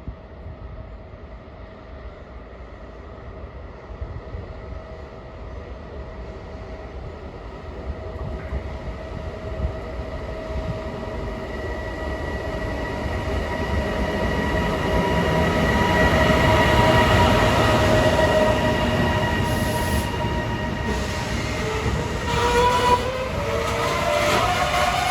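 Electric train approaching and passing through a station. Its running noise and a steady whine grow louder over the first two-thirds, peak, and a rising whine comes in near the end.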